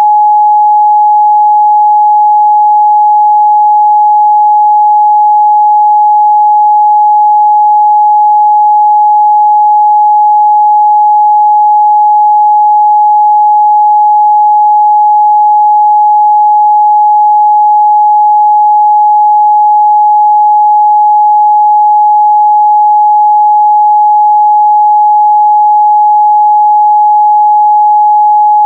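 A steady 841 Hz pure sine-wave test tone, one unchanging pitch at a constant loud level, used for checking the midrange response of speakers and headphones.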